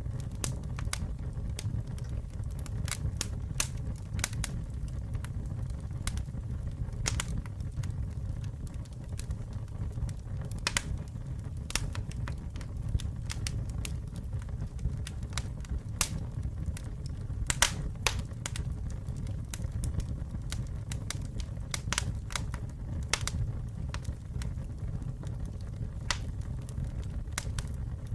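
Wood campfire burning: a steady low rumble of the flames with irregular sharp crackles and pops from the burning wood, several a second at times.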